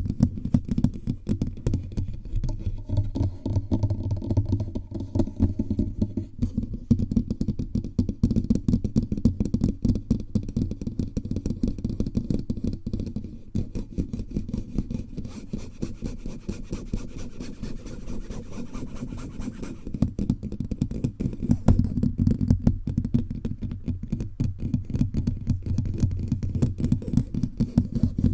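Fingers tapping rapidly and continuously all over a bare microphone, a dense stream of dull, bassy thuds.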